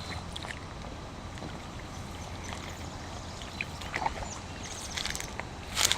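Quiet outdoor background with a steady low rumble, faint scattered clicks and rustles, and a louder brief rustle near the end.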